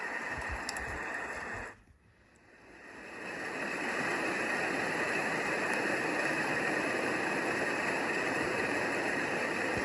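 Momcozy baby sound machine playing its built-in nature sounds: a hissing rain-like track that cuts off about two seconds in, then a steady rushing water sound, like waves or a stream, that fades in over about two seconds.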